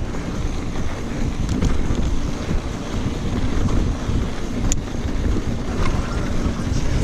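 Wind buffeting the microphone over the rumble and rattle of a mountain bike rolling fast down a dirt singletrack, with a sharp click about two-thirds of the way through.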